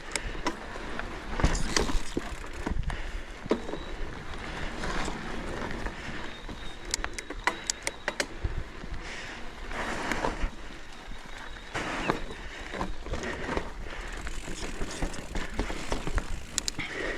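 Electric mountain bike climbing a rough trail, heard from the rider's position: steady tyre and trail noise with scattered clicks and knocks from the bike.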